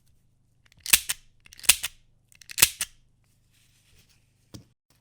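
Restored Nagant M1895 revolver's action being worked: three sharp metallic clicks, each a quick cluster, a little under a second apart, then a fainter click near the end.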